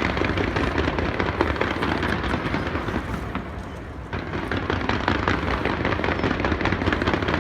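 Aerial fireworks display: a dense, rapid run of crackles and bangs from many shells bursting. It eases slightly a little past three seconds in and picks up again about four seconds in.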